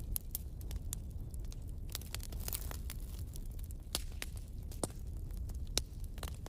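Wood fire crackling in a fireplace: irregular sharp pops and snaps of burning logs over a low steady rumble of the flames, with a few louder pops in the second half.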